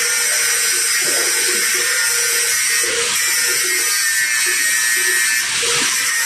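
Electric arc welding: a steady, crackling, frying hiss from the welding arc.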